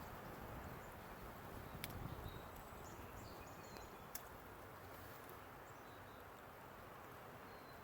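Quiet outdoor ambience: a steady faint hiss, with a few faint, brief bird chirps and small clicks.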